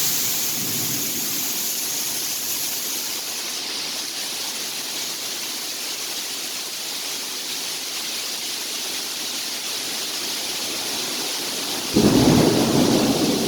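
Steady rain hissing, then about twelve seconds in a sudden loud clap of thunder that goes on rumbling.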